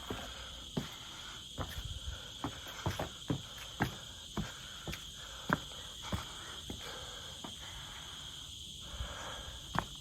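Insects droning steadily at one high pitch, with irregular footsteps crunching on the trail, one or two a second.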